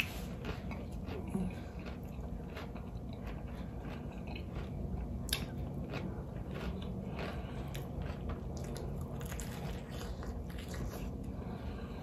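A person chewing crisp fried catfish, with irregular crunches and wet mouth sounds, and one sharper click about five seconds in.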